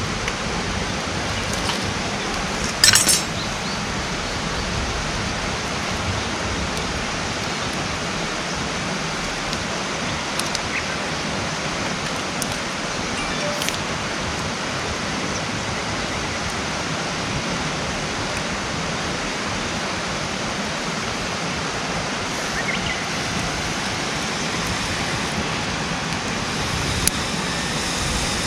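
Wood campfire burning, with a few sharp pops and crackles over a steady, even rushing background.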